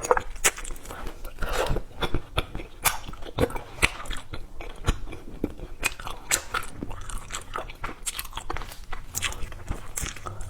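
Close-up chewing and biting of a crunchy jam-filled snack, with many quick, irregular crunches.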